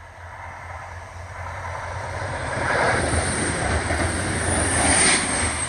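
Train approaching and passing close by at speed, a rush of wheels on rail building steadily and loudest around three and five seconds in; no horn is sounded.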